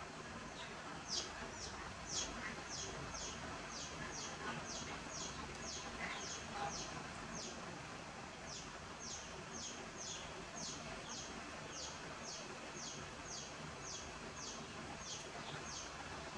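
A bird chirping over and over: short high notes that each drop in pitch, about two a second, with a brief pause about halfway. Steady background hiss underneath.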